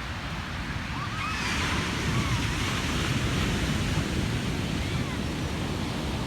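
Ocean waves breaking on a beach: a surge of surf swells up about a second in, peaks, then settles into a steady wash.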